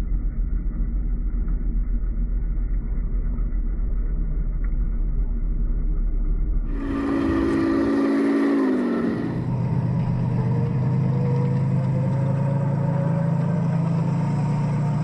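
Heng Long Leopard 2A6 1/16 RC tank driving, with its plastic gearboxes and drive motors running under a steady engine-like drone. About seven seconds in the sound changes, and the pitch drops around the ninth second before holding steady again.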